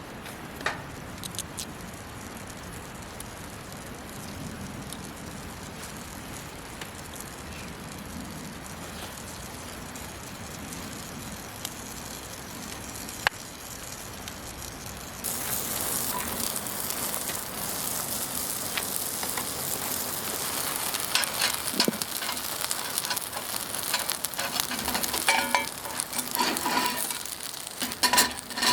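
Quiet crackle of a wood fire. About halfway through, a loud sizzle starts suddenly as a thick pork belly block hits a hot cast-iron skillet and keeps frying, with spitting pops and a few knocks.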